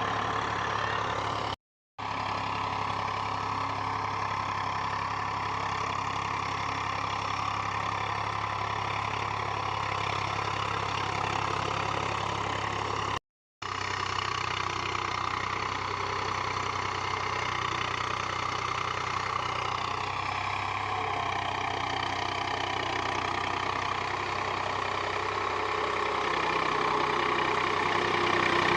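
Eicher tractor's diesel engine running steadily, broken by two short dropouts to silence. The sound grows louder over the last few seconds as its note shifts.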